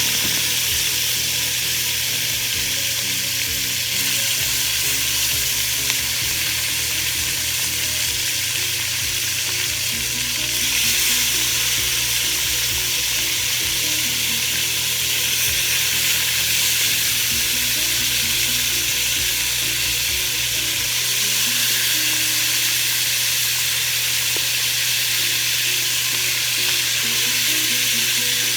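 Marinated chicken pieces shallow-frying in hot cooking oil: a steady sizzle, growing slightly louder about ten seconds in.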